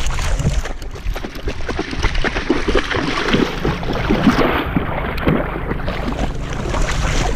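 A pit bull wading in a shallow river, its legs splashing and sloshing the water in irregular strokes, heard up close from a camera strapped to the dog, with some wind on the microphone.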